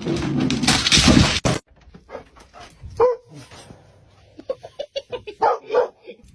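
A loud burst of noise for the first second and a half that cuts off abruptly, then a dog making short, scattered vocal sounds, with one clearer call about three seconds in and a cluster of calls near the end.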